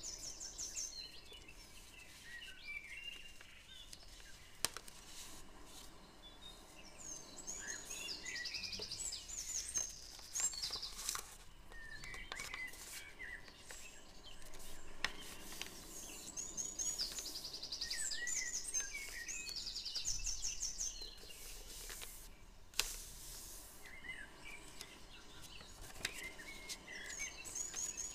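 A small bird singing: a fast, high trilled phrase that comes back about every nine seconds, with scattered chirps between. Soft clicks and rustles of paper being pressed and creased come through now and then.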